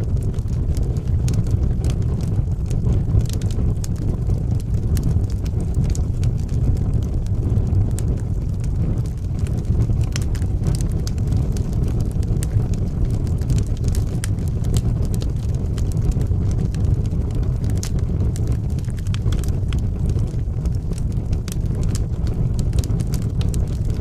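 Wood fire burning in a fireplace: a steady low roar of the flames with frequent small crackles and pops from the burning wood.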